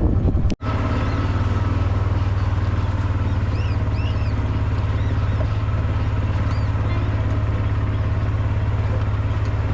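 A motor vehicle's engine running at a steady speed, a constant low drone that starts abruptly just after the beginning.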